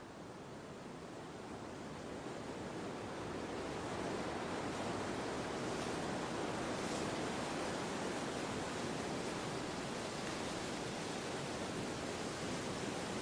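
Wind blowing as an even rushing noise, swelling over the first four seconds or so and then holding steady.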